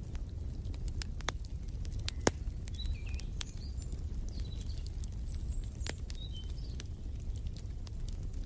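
Wood fire crackling, with irregular sharp pops over a low steady rumble; one louder pop a little over two seconds in. Faint short bird chirps come in through the middle.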